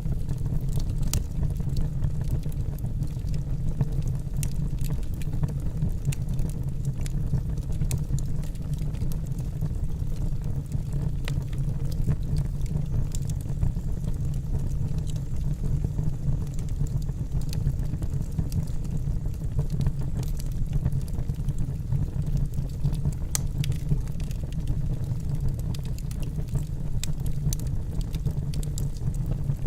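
Wood fire burning in a fireplace: a steady low rumble of the flames, with frequent irregular crackles and pops from the burning logs.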